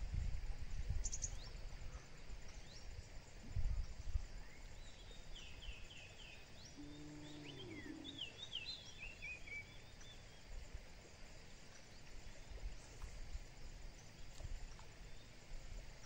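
Wild birds calling, with a run of quick, falling chirps from about five to nine seconds in. There are low rumbles near the start and a short low call near the middle.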